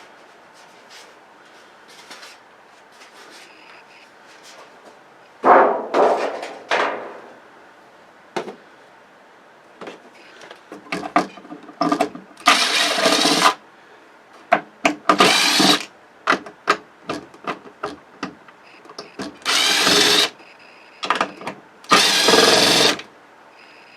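Cordless drill-driver running screws out of a flat-screen TV's casing in four short bursts of about a second each in the second half, among knocks and clattering from handling the parts.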